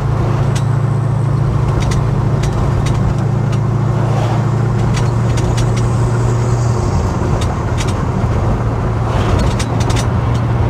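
Holden HK driving along, heard from inside the cabin: a steady low engine drone with road noise and scattered faint clicks.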